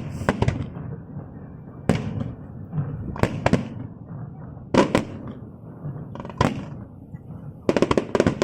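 Aerial fireworks bursting: single sharp bangs every second or two over a steady low rumble, then a quick run of bangs near the end.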